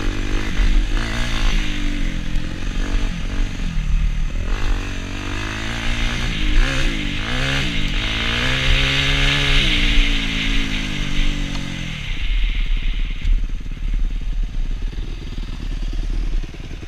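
Suzuki RM-Z250 dirt bike's single-cylinder four-stroke engine revving up and down repeatedly under riding. About twelve seconds in, its pitched note drops away, leaving a rougher, lower rumble.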